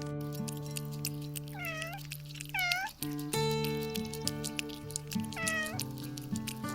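A cat meows three times in short calls, about a second and a half in, a second later, and again near the end, over background music.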